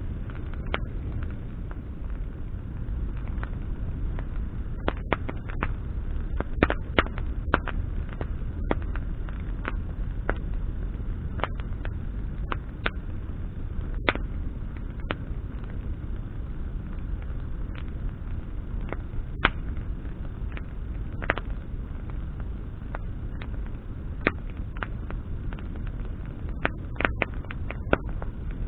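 Wood fire burning with a steady low rumble of flame, broken by irregular sharp crackles and pops of burning branches.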